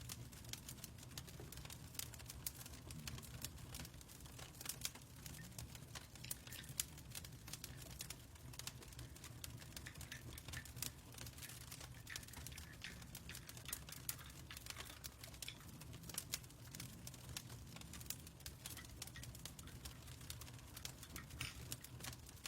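Fireplace crackling: a dense run of irregular small pops and snaps over a low steady hum.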